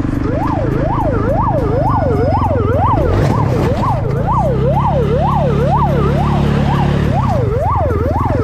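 Emergency-vehicle siren in a fast yelp, rising and falling about two and a half times a second, over a vehicle engine running steadily that rises in pitch for a few seconds midway.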